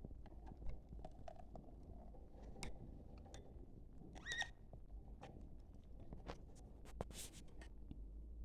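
Budgerigars moving in a cage: scattered small clicks and scratches, one short chirp about halfway through and a brief hissy rasp near the end.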